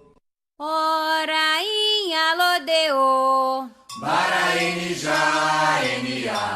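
Candomblé reza, a liturgical chant in Yoruba: after a brief gap, a lone voice sings a slow line of held notes that slide between pitches. About four seconds in, a group of voices answers together in call and response.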